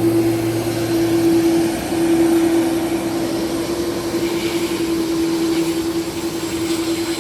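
Aircraft engines running loudly with a steady droning tone, a lower hum dropping out about a second and a half in.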